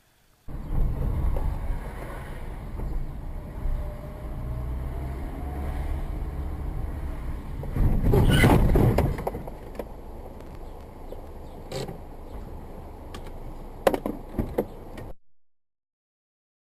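A motor vehicle running with a steady low rumble, swelling to a louder rush about eight seconds in, a few sharp knocks near the end, then cutting off abruptly.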